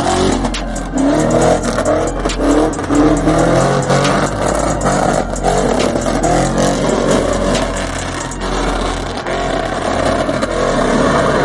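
Car engine revving hard and loud, the sound rising and falling in pitch with a constant rush of noise.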